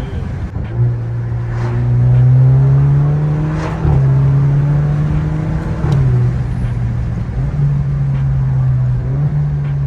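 Alfa Romeo Giulia 2.0T's turbocharged four-cylinder engine running through an AFE axle-back exhaust with the resonator deleted, under way: a deep exhaust note that climbs slowly and then drops or steps several times as the gears change.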